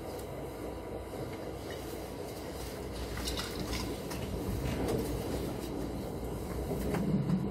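Mugunghwa-ho passenger train running along the track, heard from inside the carriage: a steady low rumble of wheels and car body, with a few faint clicks and rattles.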